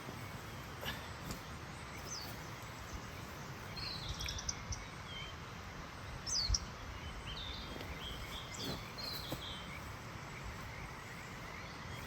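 Wild birds calling: scattered short chirps and brief whistled phrases over a steady outdoor background hiss, with a single low thump about six and a half seconds in.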